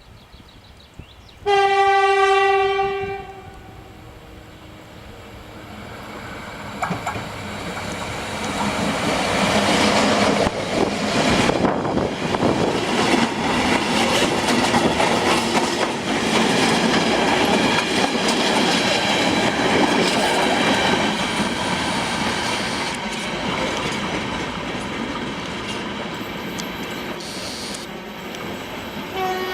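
A train sounds one horn note for about a second and a half, then runs through the halt without stopping. The rail noise builds, stays loud for over ten seconds and slowly fades, and a second short horn note comes right at the end.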